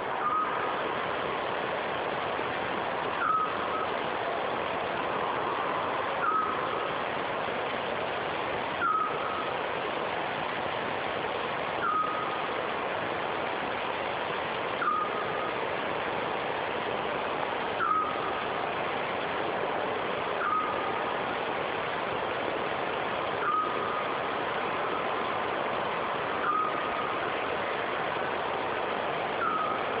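Eurasian scops owl repeating its single short whistled note about every three seconds, ten times, over a steady rushing background noise.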